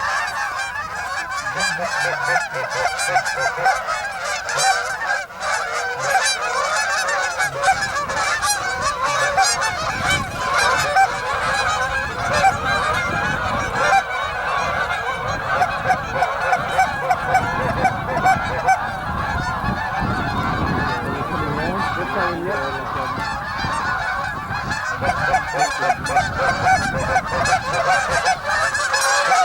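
A large flock of geese honking continuously, many overlapping calls at once.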